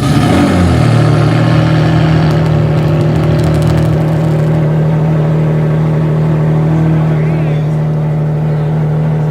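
Ferrari Enzo's V12 engine just after starting, its pitch moving in the first second before it settles into a steady idle while it warms up.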